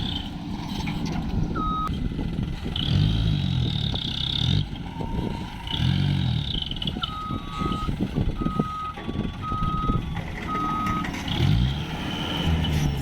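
Truck engine revving up and dropping back several times as the truck manoeuvres, with a reversing alarm beeping: one beep early, then about four evenly spaced beeps in the second half.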